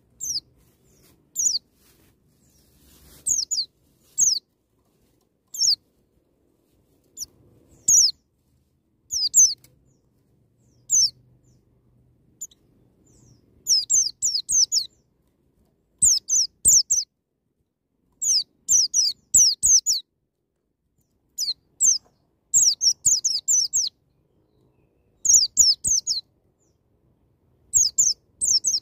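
White-eye (pleci) singing short, high chirps that slur downward, spaced a second or two apart at first, then from about halfway in coming in quick runs of two to four notes.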